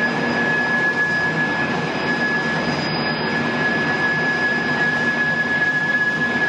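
Wood pellet production line machinery running steadily: a dense mechanical noise with a constant high-pitched whine over it.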